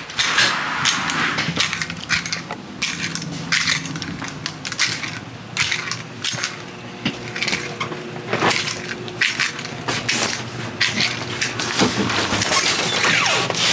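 Repeated clinks, clicks and clatter of small hard objects being handled and set down, irregular throughout, over a faint steady low hum.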